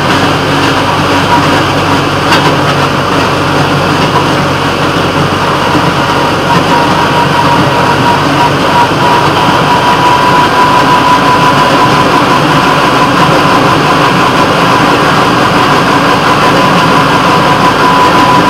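Train on the move, heard from the front of the moving train: steady engine and running noise, with a steady whine that grows stronger from about a third of the way in.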